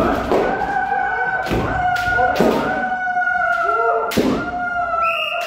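Kendo practice: a long, held kiai shout, crossed by about five sharp impacts from shinai strikes and stamping feet.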